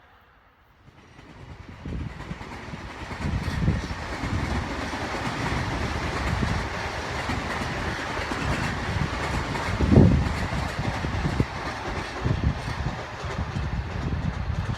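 Electric commuter train passing at speed: the noise swells in over the first two seconds, then a steady rolling rumble with wheels clacking over rail joints, and one louder knock about ten seconds in.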